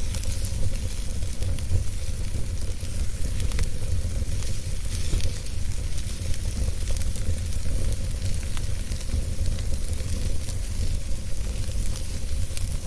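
Wood fire burning in a fireplace: a steady low rumble and hiss, with frequent small crackles and pops from the burning wood.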